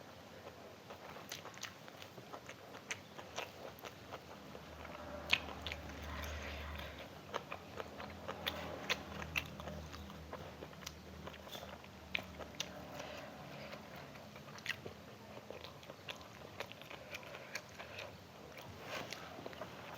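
A person chewing and biting food close to the microphone during a meal, with many small crisp clicks and mouth sounds throughout.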